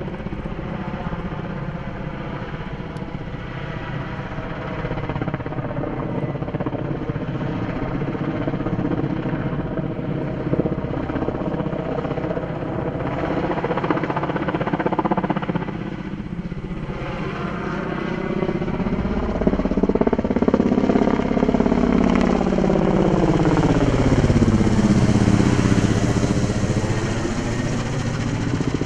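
Helicopter flying past, its rotor and engine sound steady, then swelling and sweeping in tone as it passes closest in the second half.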